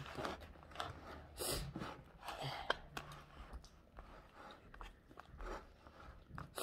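A person chewing a mouthful of fresh strawberry, soft wet irregular mouth sounds.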